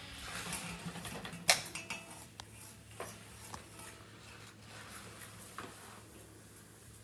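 Hard objects clicking and clattering now and then, with one sharp knock about a second and a half in, over a faint low hum.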